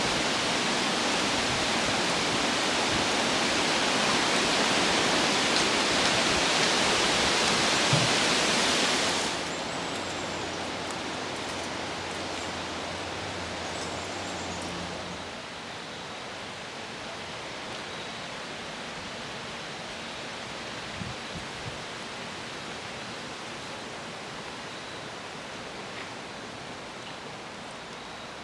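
Wind rushing through the forest trees, a steady hiss. It drops suddenly about nine seconds in and eases again a few seconds later.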